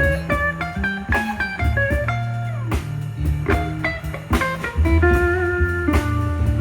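Live blues band playing an instrumental passage: a lead guitar plays single-note runs with some bent notes over bass and drums.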